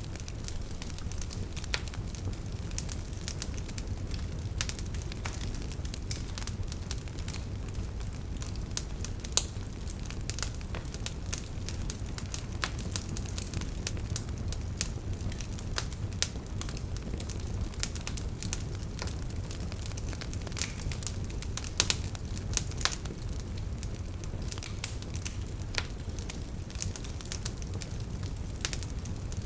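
Wood campfire burning with a steady low rumble of flames and frequent sharp crackles and pops from the firewood, the loudest pops about 9 seconds and 22 seconds in.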